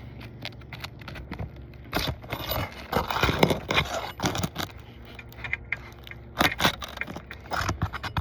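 Asphalt shingles scraping and crackling as they are pried up with a roof snake, metal tool grating on the gritty shingle surface. It comes in irregular bouts of scrapes and clicks, densest from about two to five seconds in and again near the end.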